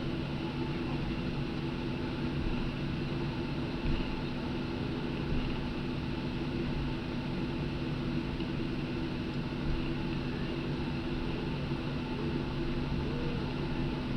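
Cabin noise inside a Boeing 737-800 taxiing after landing: a steady hum of its CFM56 engines at idle and the cabin air, with a few constant low tones.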